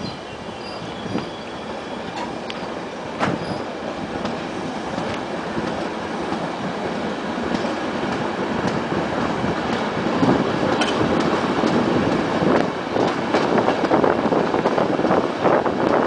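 A regional train pulling away from a station and gathering speed, heard from aboard: the running noise of wheels on rail grows steadily louder, with a few sharp clicks and a quickening clatter of wheels over the rails near the end.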